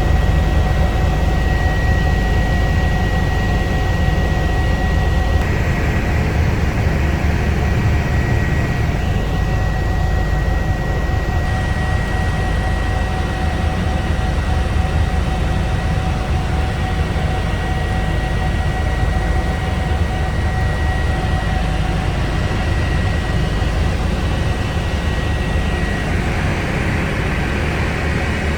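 Eurocopter EC145 twin-turbine helicopter in steady flight: a constant loud rotor and engine noise heavy in the low end, with a thin steady high whine running over it.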